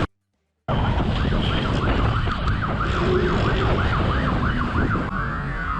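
Police siren in rapid yelp mode, rising and falling a few times a second over the loud rumble of wind and engine on a pursuing police motorcycle. The siren starts after a brief gap of silence and shifts to a broader wail near the end.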